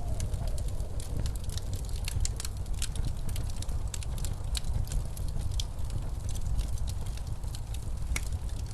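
Wood fire crackling in a fireplace, with frequent sharp pops, over the steady low rumble of blizzard wind.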